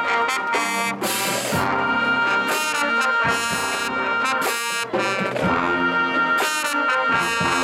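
Marching band playing loudly, brass horns (trombones and trumpets) holding chords over percussion hits.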